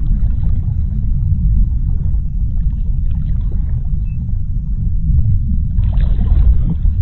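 Underwater ocean ambience: a steady low rumble of water, with a short swell of brighter rushing noise about six seconds in.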